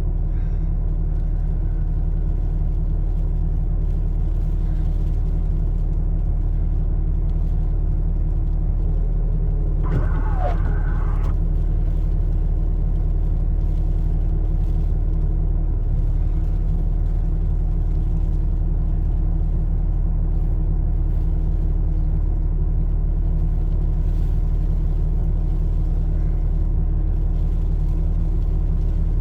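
Vehicle engine idling steadily, heard from inside the cab as a constant low drone. About ten seconds in, a brief higher sound glides down in pitch.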